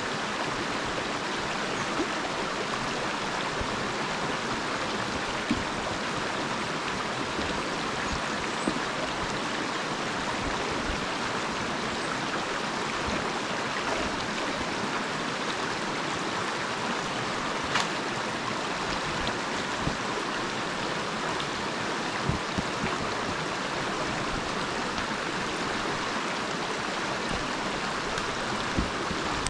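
River water rushing steadily, with a few faint clicks or knocks now and then.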